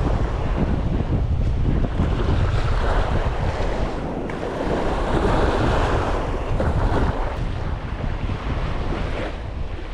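Surf washing onto a beach, with wind buffeting the microphone in a low rumble; the wash of a wave swells about midway and then eases.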